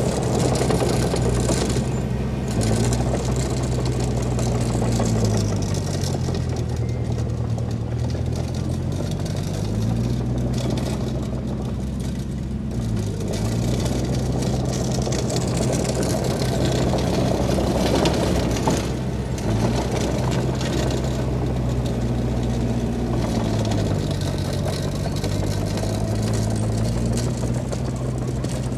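Diesel engine of heavy earthmoving machinery running under varying load; its engine note dips and climbs back up several times.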